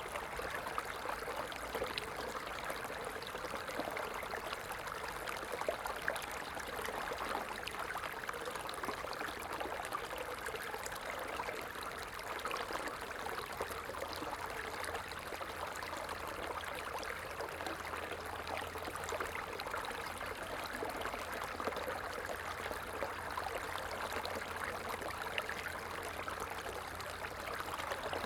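Stream water running steadily over stones, a continuous burble with fine splashing and trickling.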